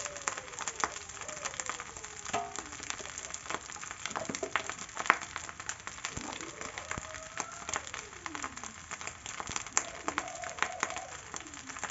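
Rice frying in a steel wok: a steady sizzle full of small crackles and sharp pops.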